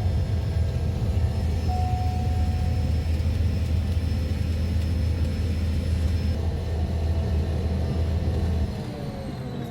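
Small passenger plane's engine drone, a steady low rumble that drops off sharply near the end as the power comes back.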